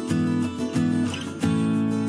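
Background music: strummed acoustic guitar, with a chord struck about every half second.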